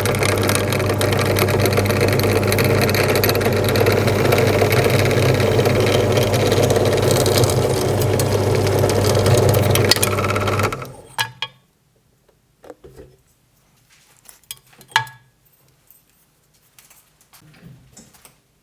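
Electric drilling machine running loud and steady for about eleven seconds with a deep motor hum, then cutting off and spinning down. A few faint knocks and clicks follow.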